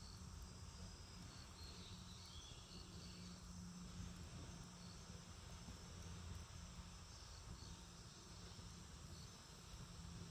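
Faint insects trilling steadily in high-pitched tones that break off and resume, over a low steady hum.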